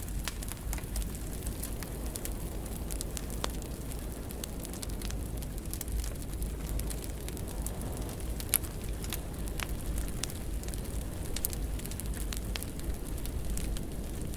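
Wood fire burning in a fireplace: steady crackling with frequent sharp pops and snaps over a low rumble of flame, and one louder pop a little past the middle.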